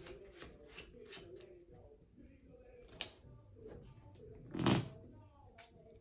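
Trading cards handled on a tabletop: a series of soft card rustles and taps, a sharp click about halfway through, and a louder, deeper thump a little later, like a hand or a stack of cards set down on the table.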